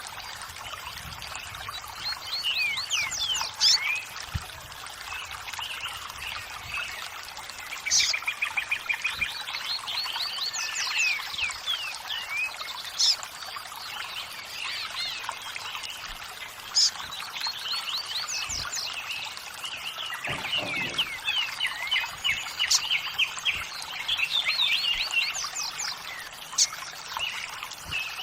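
Running water trickling steadily, with several small birds chirping and trilling over it in quick runs of short sweeping notes.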